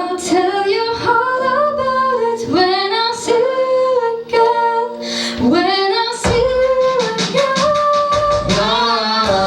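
A woman singing a sustained pop ballad line with gliding, held notes over a light accompaniment; a steady beat comes in about six seconds in.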